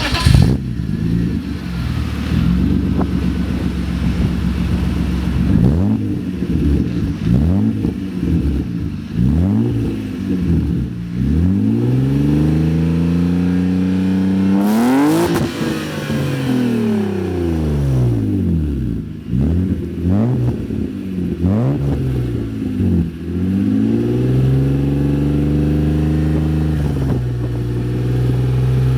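BMW E34 5 Series engine and exhaust revved repeatedly while stationary: short blips of the throttle, one long climb to high revs about halfway through that falls back, more blips, then a steady idle near the end.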